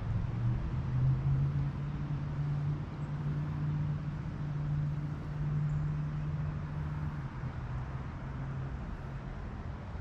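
A low, steady engine hum, as of a motor vehicle, that fades about three-quarters of the way through, over a constant low rushing background.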